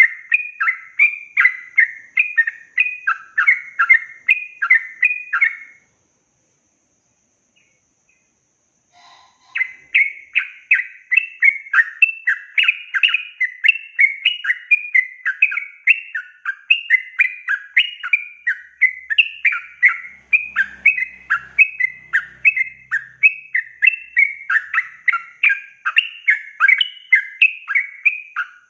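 Yellow-vented bulbul (trucukan) singing a long, fast run of chattering notes, about two to three a second. The song breaks off for a few seconds about six seconds in, then picks up again and carries on without a break.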